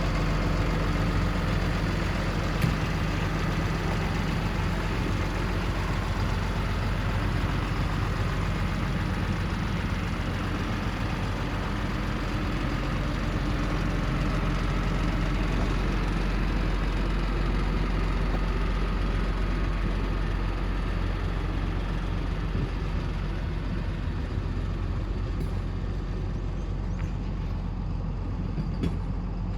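Cummins ISB 6.7-litre turbo diesel of a medium-duty truck idling steadily, a low even drone, with a light click about three seconds in.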